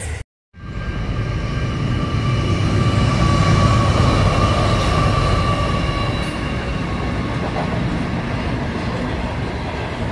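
Freight train rolling past: loud steady rumble of the locomotive and wagons, with thin high wheel-squeal tones held over it that fade in the second half. The sound cuts out for a moment just after the start.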